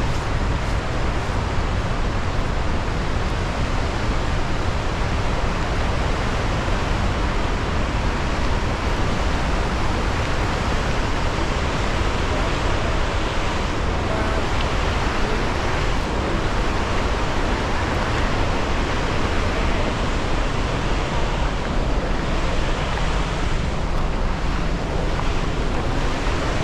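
Gullfoss waterfall's steady rushing noise, a dense even wash with the most weight in the low end and no breaks.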